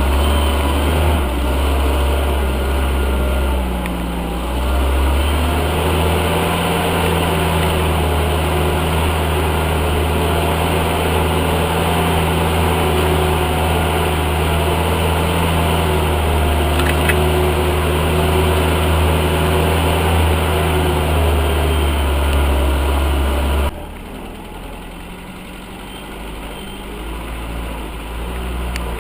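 UAZ off-roader's engine running steadily under load with a deep, loud rumble, its pitch dipping and settling about four to five seconds in. Near the end the sound cuts off abruptly to a quieter engine sound.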